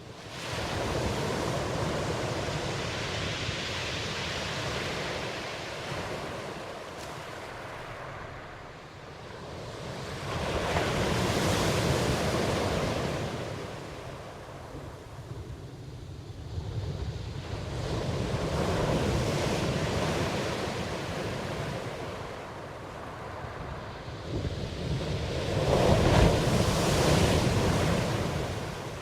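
Ocean waves surging and washing in, four slow swells roughly every seven or eight seconds, the last one the loudest.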